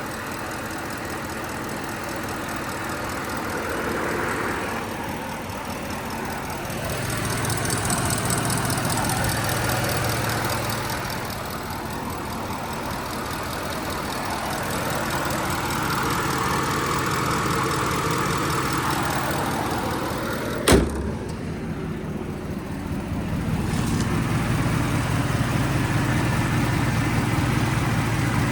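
Roush-supercharged 6.2 L V8 of a Ford F-150 Raptor running at idle, its note swelling a few times. About two-thirds of the way through there is a single sharp slam, like a door or hood shutting.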